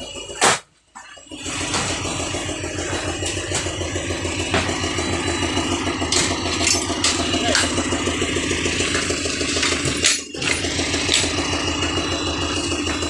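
Vehicle engine running steadily at idle with an even pulsing beat, after a short break in the sound about a second in; there is another brief break about ten seconds in.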